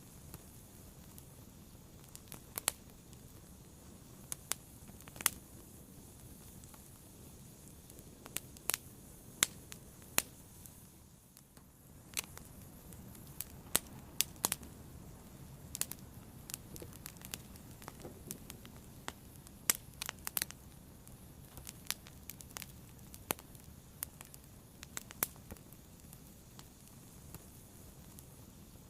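A fire crackling: irregular sharp pops and snaps over a soft, steady hiss, with a brief lull about eleven seconds in.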